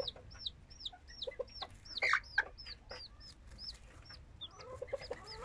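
İspenç chicks peeping steadily: short high peeps that bend down in pitch, about two to three a second, with a louder cry about two seconds in.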